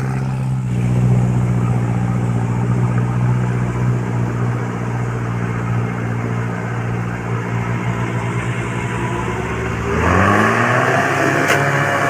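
UAZ off-road vehicle's engine idling steadily, then revved about ten seconds in, its pitch rising and holding higher.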